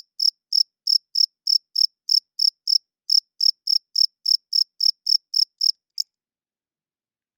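A male cricket chirping: an even run of short, high-pitched chirps, about three a second, made by rubbing its wings together. The chirping breaks briefly about three seconds in and cuts off suddenly about six seconds in.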